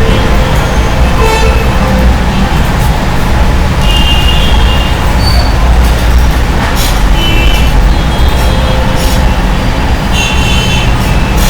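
Road traffic noise: a steady loud rumble, with several short high-pitched horn toots now and then.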